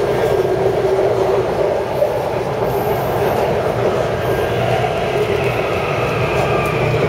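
Taipei Metro C371 electric train running along the track: a steady rumble of wheels and running gear, with a faint high whine coming in over the last couple of seconds.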